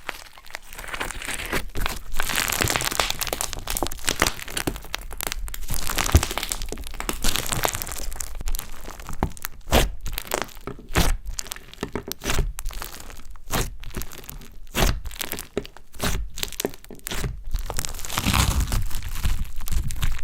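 Slime being squeezed and worked by hand, crackling. From about nine to seventeen seconds in comes a run of sharp pops as trapped air bursts.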